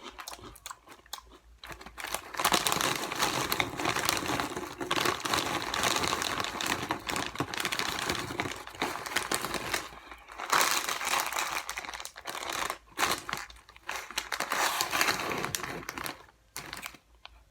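A Cheetos snack bag crinkling loudly as it is handled and rummaged through, in long stretches with short pauses.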